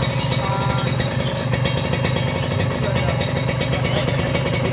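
Kawasaki Ninja two-stroke motorcycle engine running steadily through a stainless racing exhaust, with no revving.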